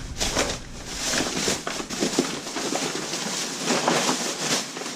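Plastic trash bag and food packaging rustling and crinkling as items are dumped into the bag, with scattered light knocks and clicks.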